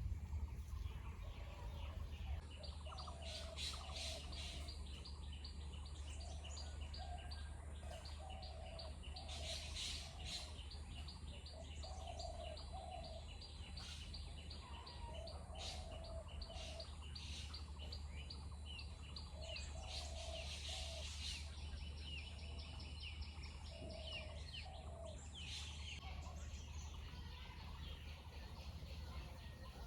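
Birds calling: short low notes repeated in little groups every second or two, over a fast, even, high ticking that stops a few seconds before the end. A steady low hum runs underneath.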